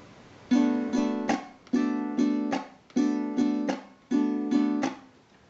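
Venezuelan cuatro strummed in a repeating rhythm: four figures of about three strokes each, a little over a second apart, each dying away before the next. This is the apagado stroke, where the hand damps the strings to silence the chord.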